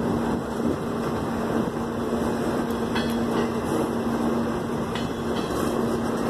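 Freight train of autorack cars rolling past close by: a steady rumble of steel wheels on rail, with a steady low hum through most of it and a couple of faint clicks.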